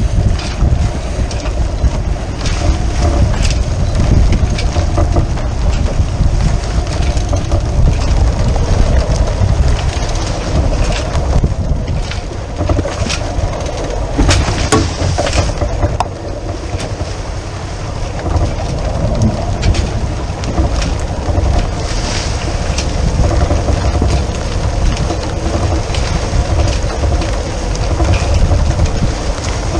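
Wind buffeting the microphone aboard a sailing yacht under way, a steady heavy rumble with scattered brief knocks and clicks.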